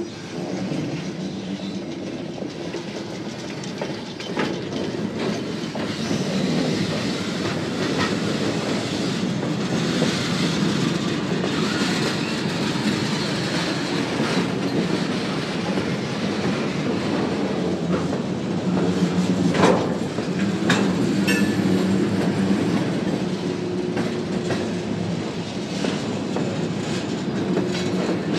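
Freight train of loaded centerbeam lumber flatcars rolling past: steady wheel rumble and rattle over the rails, with sharp clanks now and then, the loudest about two-thirds of the way through.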